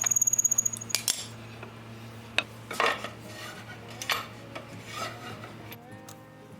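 Hand tools being handled in a woodworking shop: a fast ticking rattle in the first second, then about five separate sharp clinks and knocks, as tools are picked up and set down.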